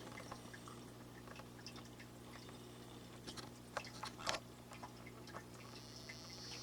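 Dwarf frogs singing: faint scattered clicks, loudest a little past the middle, then a high buzzing trill starting near the end, over a steady low hum.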